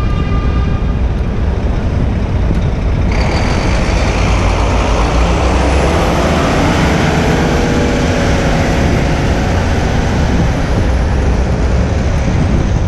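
City avenue traffic heard from a moving bicycle: a heavy vehicle runs close by under steady low rumble, and a loud hiss joins about three seconds in.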